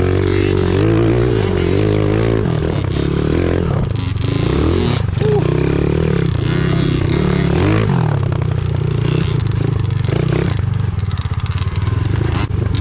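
Pit bike engine revving up and falling back over and over as it is ridden, with clattering from the bike.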